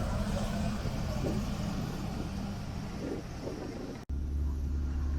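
Car engine running steadily, with a low hum and rumble. The sound drops out for an instant about four seconds in, and a deeper steady rumble follows.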